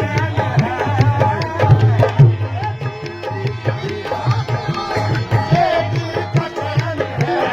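Qawwali music: a hand drum playing a fast, steady rhythm with strong low strokes, under a wavering melodic line.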